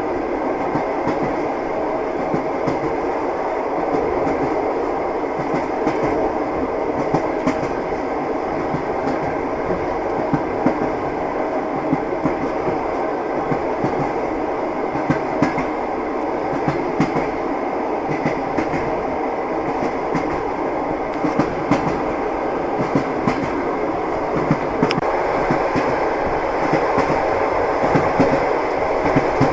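Moving train: a steady rumble with train wheels clacking over the rails, short sharp clicks scattered throughout.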